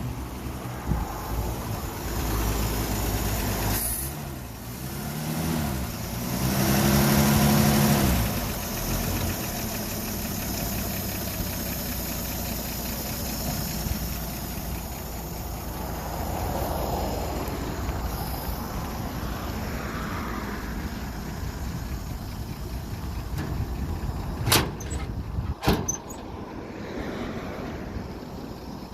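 Engine of a 1950 Chevrolet 2-ton truck running steadily, revved up once and let back down about six seconds in. Two sharp knocks come near the end.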